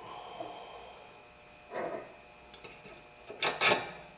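Metal parts of a sway bar link being handled and fitted: scraping and rubbing, then two sharp metallic knocks a quarter second apart about three and a half seconds in, as the link's stud is worked through its mounting hole.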